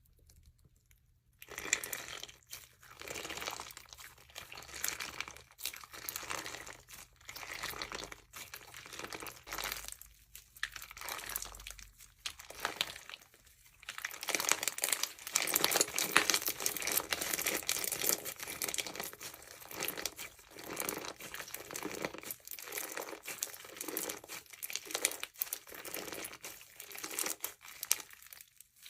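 Jewelry slime, slime packed with small beads, being squeezed and pressed by hand: a dense crackling, crunching and popping that comes in stretches with brief pauses, loudest about halfway through.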